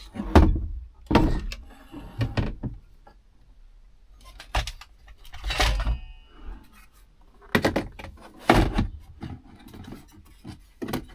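Irregular knocks, clunks and rattles of parts being handled and tried into place in a truck cab, with short pauses between them.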